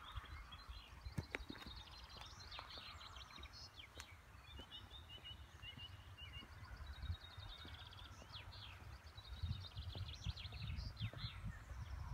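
Several small birds singing: repeated high trills and short chirps, over an uneven low rumble.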